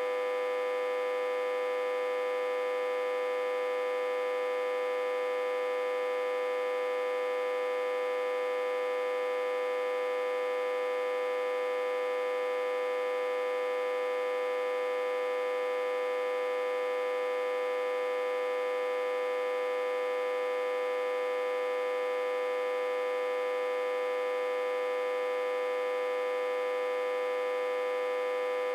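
An autotransformer humming steadily, reverse-connected to a step-down transformer and fed about 60–80 V. A constant, unchanging hum with one strong mid-pitched tone and many higher overtones above it.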